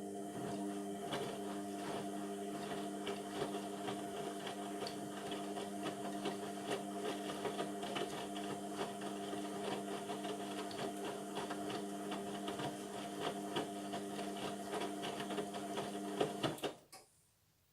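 Indesit MTWC71252WUK washing machine running mid-cycle: a steady electric hum with fast clicking and rattling over it, which stops abruptly near the end.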